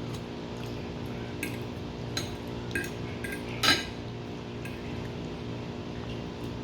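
Cutlery clinking against a dish: several light clinks, the loudest a little past halfway through, over a steady low background hum.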